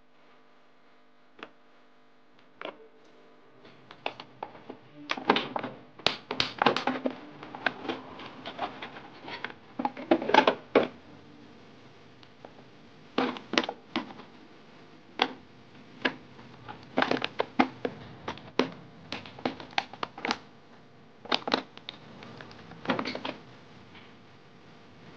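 Irregular knocks, crackles and scrapes on a thin plastic water bottle, starting a few seconds in and coming in quick clusters with short pauses between them.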